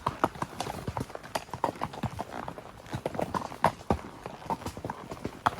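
Hoofbeats of gaited show horses moving along the rail: a quick, uneven clatter of hoof strikes.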